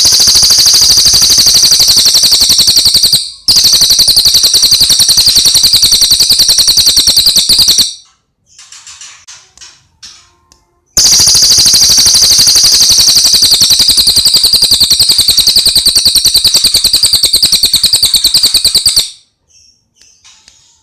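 A caged songbird on a bird-training recording singing long, very fast rattling trills of high notes, loud and three runs in all, with a pause and a few softer scattered chirps between the second and third runs.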